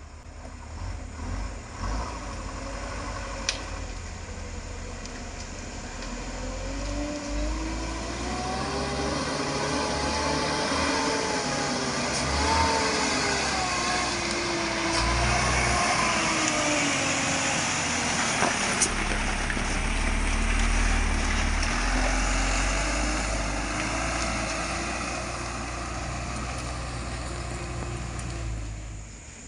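Palm-oil truck's diesel engine labouring at low speed, its pitch rising and falling slowly as it is worked through a deep pothole. The rumble grows louder through the middle and eases near the end.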